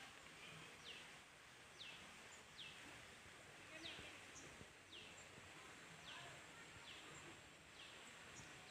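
A bird calling over and over, a short high note sliding downward about once a second, faint over a steady outdoor background hiss.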